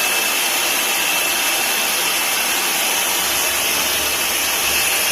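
Titan vacuum cleaner motor running steadily at full speed with a steady high whine over the rush of air. It is switched on for a suction test on a cleaner that won't pick up.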